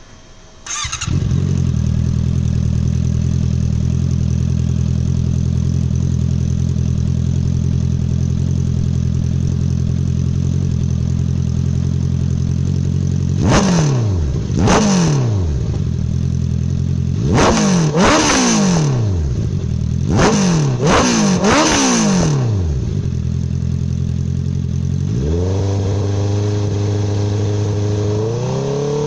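Honda CBR650F inline-four engine through an aftermarket exhaust. It starts about a second in and idles steadily, then is blipped about seven times, each rev rising and dropping back quickly. Near the end it is held at a raised, slowly climbing rpm.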